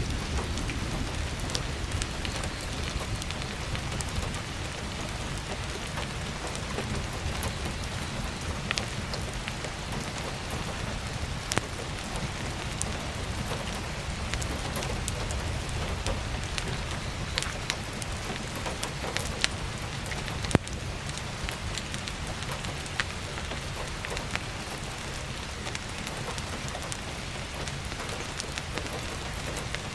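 Steady heavy rain pattering on a roof and skylight, with scattered sharp crackles and pops of firewood burning in a wood stove; one louder pop about two-thirds of the way through.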